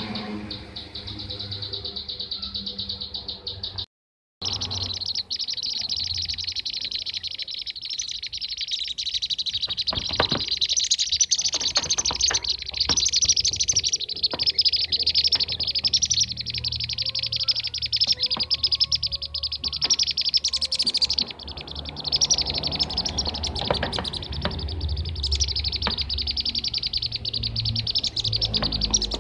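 A flock of bee-eaters (kirik-kirik) calling: a dense, continuous chorus of rapid, high chirps, used as a lure recording to draw the birds in. It breaks off in a brief dropout about four seconds in.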